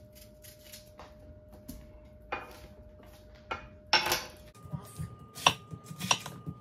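Kitchen utensils handled on a counter: scattered light clicks, a louder clatter about four seconds in, then a run of sharp, regular strikes about every half second.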